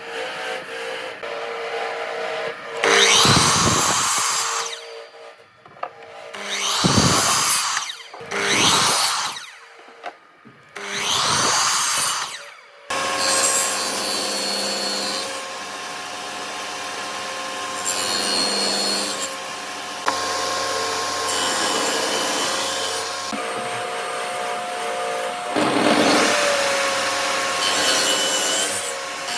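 Power tool working wood: four loud passes of a second or two each through the wood, then the tool running more steadily with a constant whine and one more pass near the end.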